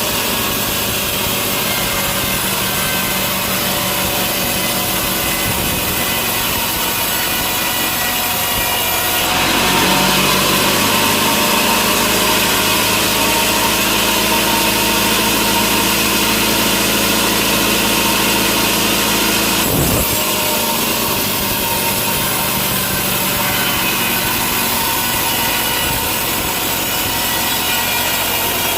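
A sawmill saw cutting lengthwise through a large log to take off a slab: a continuous loud cutting noise over a steady machine hum. The cut brightens about a third of the way in and shifts again about two-thirds of the way through.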